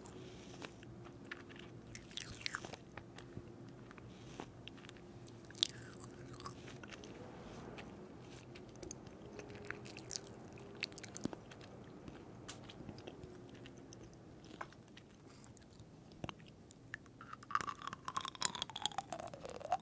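A person chewing and biting into crunchy food, with scattered sharp crunches over a faint steady hum. A falling tone sounds near the end.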